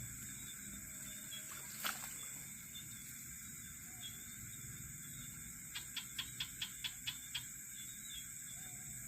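Night chorus of crickets and other insects, a steady high shrilling. One sharp click comes about two seconds in, and a quick run of about eight clicks, roughly five a second, comes a little past the middle.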